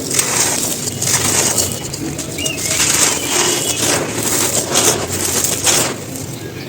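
Dry, crumbly cones being crushed and crumbled, a gritty crunch repeated in several strokes about a second apart.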